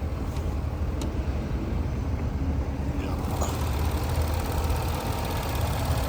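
A 2016 Range Rover's supercharged V8 idling steadily, running healthy, with a few sharp clicks over it.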